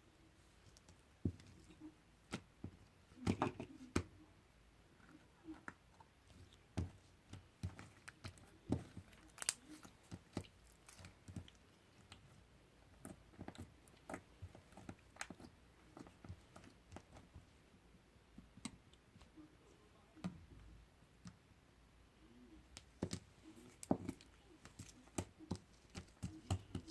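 Slime being kneaded and pressed by hand, giving off a string of irregular sticky clicks and small pops, a few of them louder.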